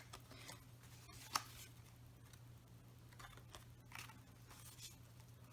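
Near silence with a few faint paper rustles and a sharp light tap about a second in, from paper journal pages and pockets being handled.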